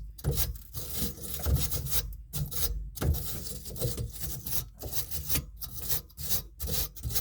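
Scrubbing the gunk-clogged threads inside a sink drain pipe fitting with a stand-in for a wire brush: repeated back-and-forth rasping strokes, about two a second.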